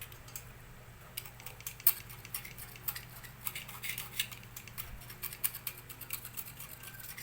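Cutter blade scraping in short, irregular clicks at film stuck to a laminator's heating coil, worked slowly so the coil is not damaged. A low steady hum sits underneath.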